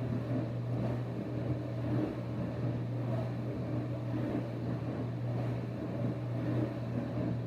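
Steady low background hum, with no clear event standing out above it.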